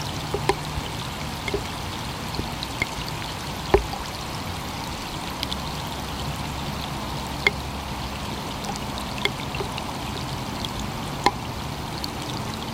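Steady rain falling, with irregular sharp taps of single drops hitting close by every second or so.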